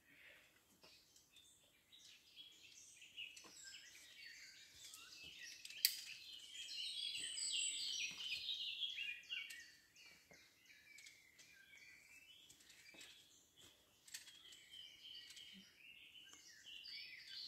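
Birds singing and chirping, busiest in the middle and again near the end, with one sharp click about six seconds in.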